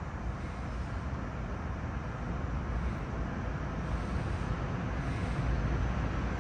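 SEPTA Regional Rail train pulling into an underground station platform: a steady low rumble of wheels and motors that slowly grows louder as it comes in.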